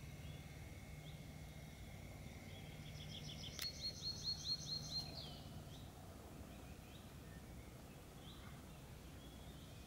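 Quiet marsh ambience: a songbird sings a quick run of about eight repeated high notes a little past the middle, over a faint steady low hum.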